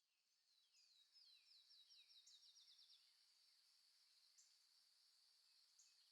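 Faint forest ambience fading in: a songbird sings a run of descending notes that speed up into a rapid trill, over a steady high-pitched drone.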